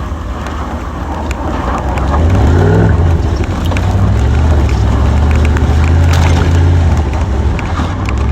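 Truck engine accelerating: its note rises about two seconds in, then holds at a steady higher pitch as it pulls along.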